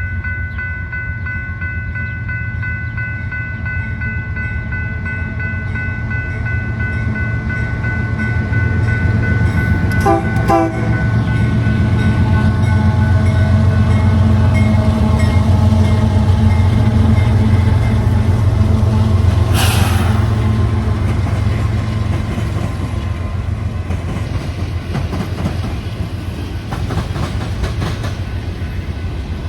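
A train passing close by. A heavy low rumble builds to a peak and fades, and a steady multi-note horn drops in pitch about ten seconds in as the train goes by. A short burst of hiss comes at about twenty seconds, and wheels click over rail joints near the end.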